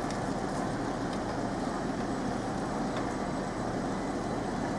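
Steady rumble of a c2c Class 357 electric multiple unit starting to pull out of the station, mixed with road traffic.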